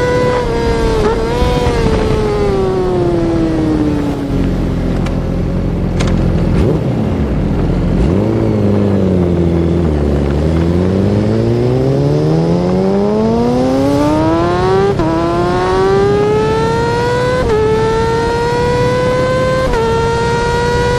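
Yamaha R6 inline-four sport bike engine at very high revs. Its pitch falls for several seconds as it slows down, then it climbs hard through the gears: a long rising pitch, then three upshifts about two and a half seconds apart, each a sudden drop followed by a new climb.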